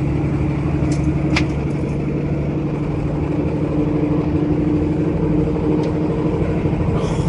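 Semi truck's diesel engine running steadily at highway cruise, heard inside the cab, with an even low hum. Two brief sharp clicks come a little over a second in.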